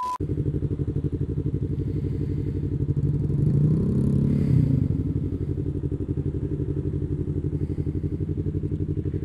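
Yamaha MT-25's parallel-twin engine running steadily under way, with a brief swell about four seconds in.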